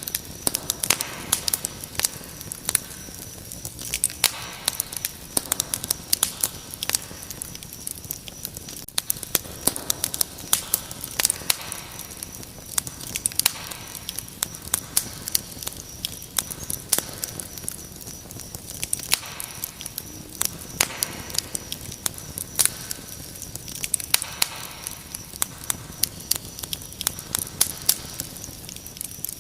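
Wood fire crackling with frequent sharp pops and snaps, over a steady high-pitched chirring of crickets.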